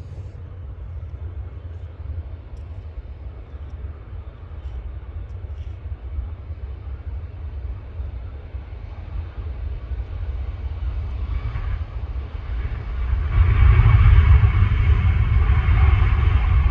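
Ryanair Boeing 737 jet engines at take-off power: a steady low rumble that gets clearly louder about thirteen seconds in, when a higher, rushing jet noise joins it.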